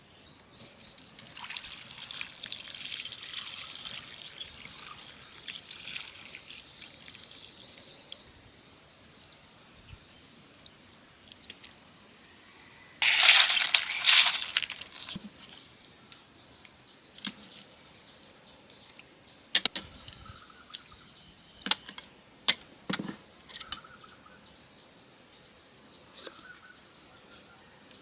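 Water trickling and pouring, with a louder pour lasting about two seconds midway, followed by scattered sharp clicks and knocks.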